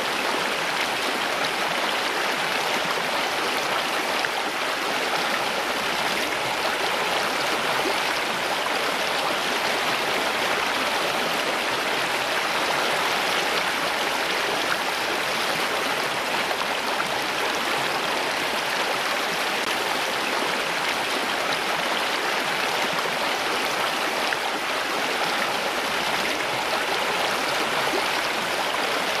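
Water flowing steadily, like a stream: a continuous, even rush with no breaks or changes.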